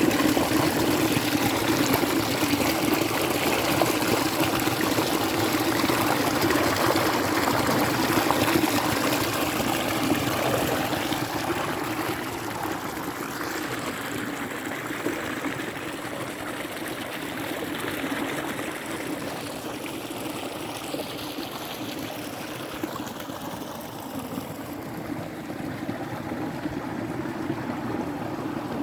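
Water flowing and trickling steadily, like a small stream or an outflow; it grows quieter about halfway through.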